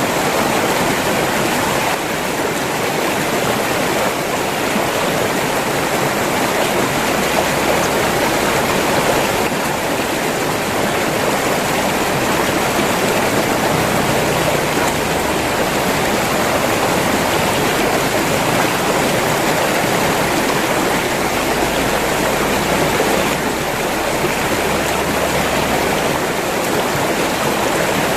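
River water flowing and rushing steadily, a dense even splashing with no breaks.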